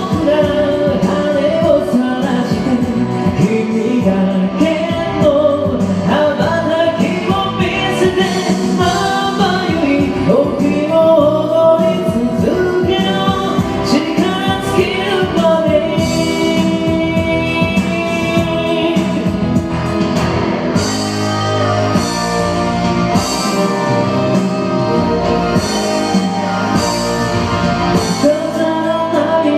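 Karaoke of an upbeat J-pop song: a voice sings the melody over a full band backing track.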